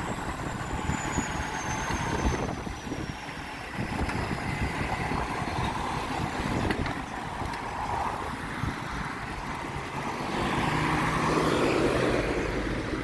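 Road traffic going by, with wind rumbling on the microphone; a vehicle passes louder about ten seconds in. A faint high whine slides slowly down in pitch over the first few seconds.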